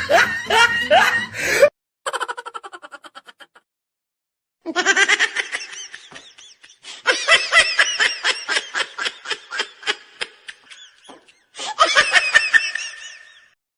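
High-pitched laughter in rapid repeated ha-ha pulses, coming in several fits with short pauses between them, the last run dying away near the end.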